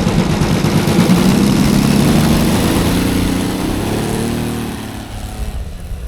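Saito FG-60R3 three-cylinder four-stroke radial engine of a quarter-scale Sopwith Pup RC model, running with its propeller. Its pitch shifts about four seconds in, then the sound fades as the model moves away.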